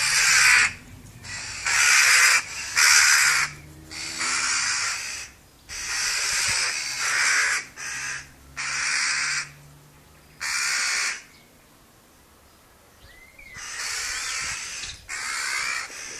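Birds calling loudly with harsh, raspy calls, about ten of them in irregular succession, each under a second long. A pause of about two seconds comes near the end before the calls resume.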